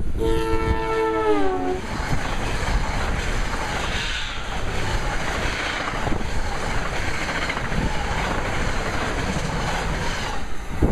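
NJ Transit Arrow III electric multiple-unit train sounding a chord horn as it arrives, the horn's pitch sliding down as it passes and cutting off after about two seconds. It is followed by the steady rush and rail noise of the train speeding by at express speed.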